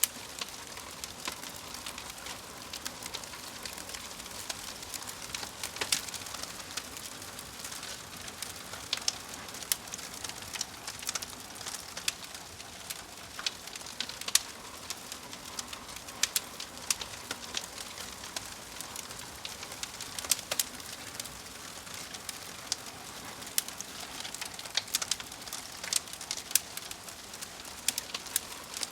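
Wood fire crackling: a soft steady hiss with frequent, irregular sharp pops and snaps.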